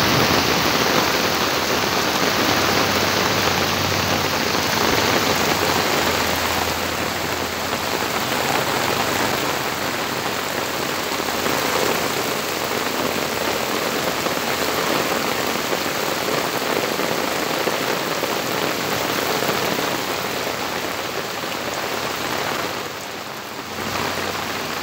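Rain falling in a steady, dense hiss, briefly dipping in loudness near the end.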